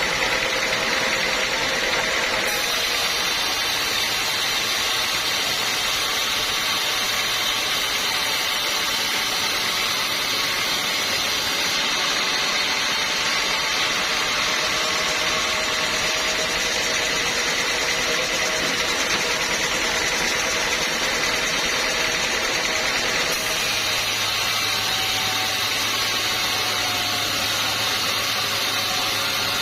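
Sawmill running steadily as its blade cuts through a teak stump, a continuous machine whine and rasp. A low hum strengthens near the end.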